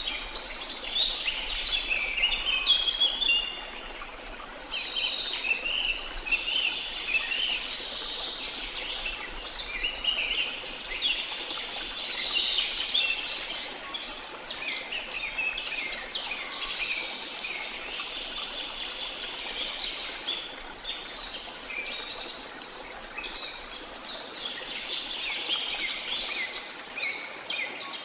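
A dense chorus of many birds singing and chirping at once, with quick overlapping high calls and trills throughout.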